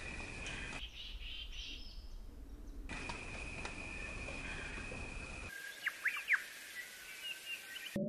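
Wild birds chirping in outdoor ambience that changes abruptly several times, with a steady high-pitched drone under much of it. A few sharp, quick chirps about six seconds in are the loudest sounds.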